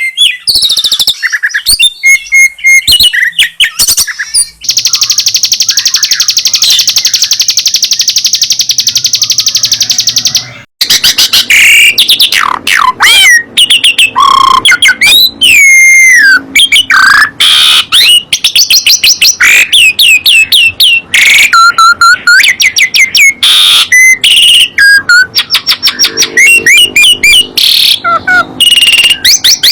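Songbirds singing loudly: a fast, buzzy trill held for about six seconds, then after a short break a rapid run of varied whistles and chirps.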